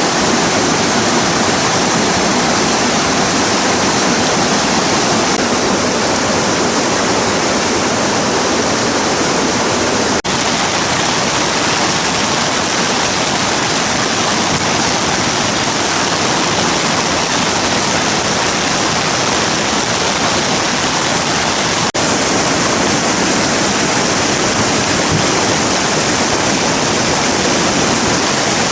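Steady rushing water of a river, an even wash of noise that dips for an instant twice where the footage is cut.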